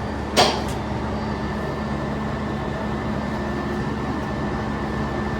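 Steady low mechanical drone with a single sharp clack about half a second in.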